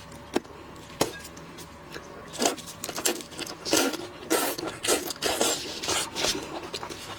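Cooked shrimp being peeled by hand close to the microphone: a couple of sharp snaps, then a run of crackling, wet crunches as the shells come away.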